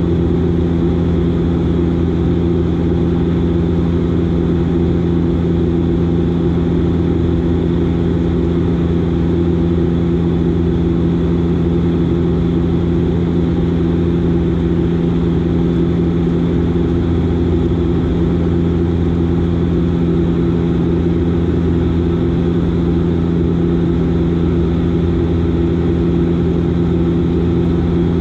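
Steady drone of a Dash 8 Q400's Pratt & Whitney PW150A turboprop engines and six-blade propellers, heard inside the cabin as an even hum with several steady low tones.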